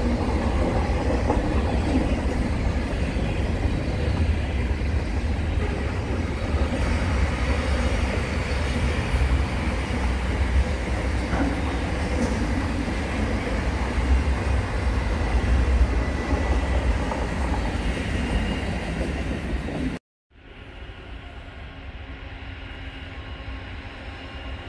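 Container freight train passing, its wagons making a continuous rumble on the rails. About 20 seconds in it cuts off abruptly, leaving a much quieter steady hum.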